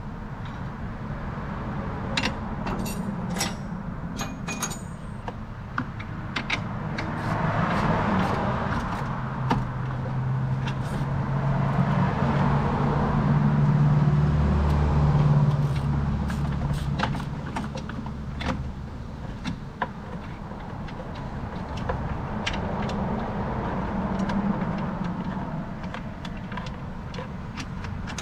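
Metal tools and parts clinking and clicking over a low, steady hum that swells louder in the middle and then eases off.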